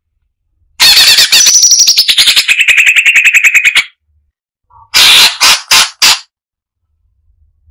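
Cucak cungkok, a bulbul, giving a loud three-second run of rapid, harsh, closely spaced notes that step down in pitch. After a short pause it gives four short harsh calls.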